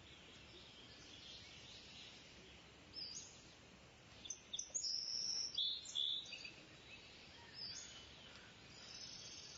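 Small birds chirping, with a cluster of short high chirps in the middle, over a faint steady outdoor hiss.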